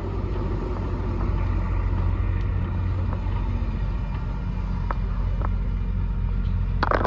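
Steady low rumble of wind buffeting the microphone on a moving bicycle, with a sudden louder rush of noise right at the end.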